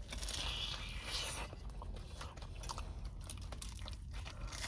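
A person biting and chewing a mouthful of calzone, with small scattered mouth clicks.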